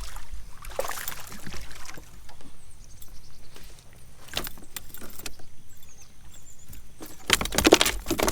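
Scattered knocks and rustles of fishing gear being handled in a kayak, then a dense burst of loud rattling and clattering about seven seconds in.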